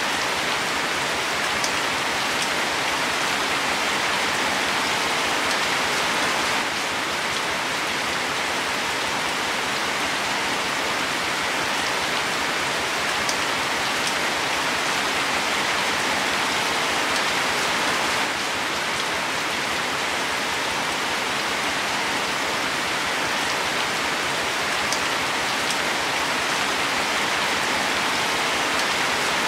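Steady rain falling on leaves, an even patter with a few sharper individual drop taps now and then.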